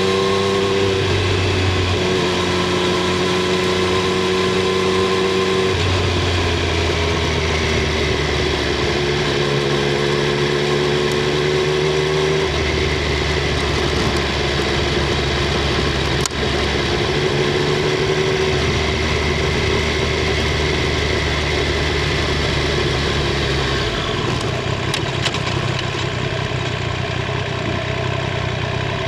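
Triumph Street Triple 765 R's inline three-cylinder engine and exhaust running on the move, heard through a microphone under the rear seat. The engine note finishes a rise in pitch about a second in, then holds fairly steady with several gentle shifts in pitch, and turns a little quieter near the end.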